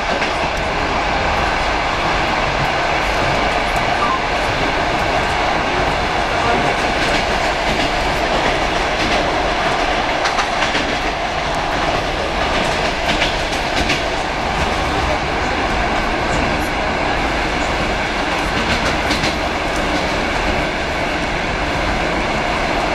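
Electric train running at speed, heard from inside the carriage: a steady rumble of wheels on rails with scattered clicks over rail joints.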